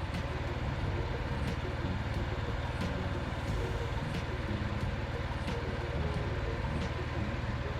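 Mini tractor's engine running steadily with a fast low throb, and faint sharp clicks or rattles every half-second to second.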